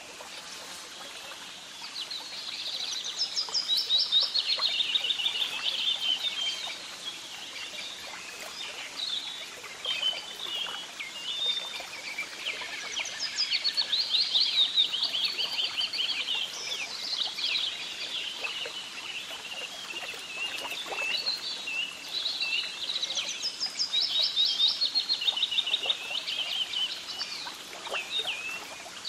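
Birdsong: quick chirps and fast trills, loudest in three spells roughly ten seconds apart, over a faint steady outdoor hiss.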